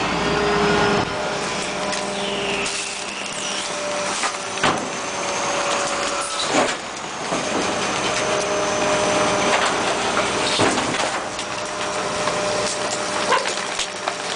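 2003 International garbage truck with a Labrie side-loader body working: steady mechanical running with several sharp knocks and clunks scattered through.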